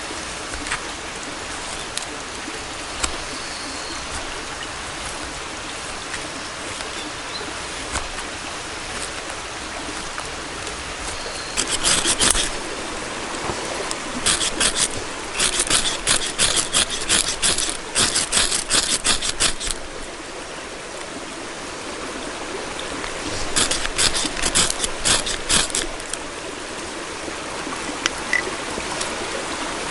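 Stream water running steadily, with three runs of quick, sharp scraping strokes over it.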